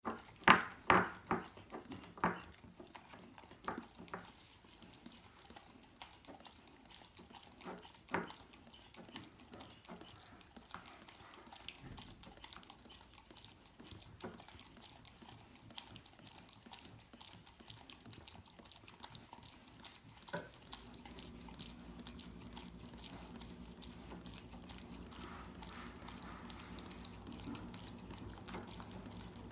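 A dog licking and smacking its mouth while eating peanut butter, with a quick run of loud wet smacks in the first few seconds and scattered softer ones after. A steady low hum starts about two-thirds of the way in.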